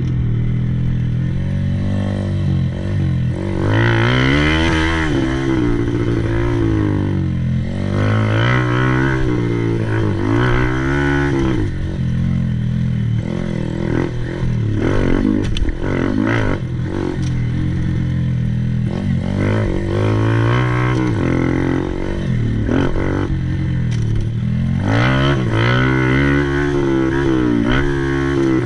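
Honda Monkey 125's single-cylinder four-stroke engine being ridden, its revs rising and dropping again and again as the throttle is opened and shut.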